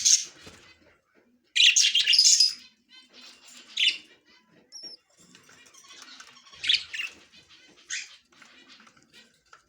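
Budgerigars chirping in short, raspy bursts, several times, with the loudest burst about two seconds in.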